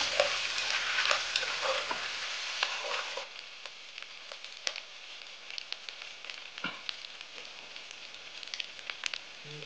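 Beef stir-frying in satay sauce over medium heat: sizzling, with a utensil stirring and scraping in the pot for about the first three seconds, then a quieter sizzle with scattered pops and crackles.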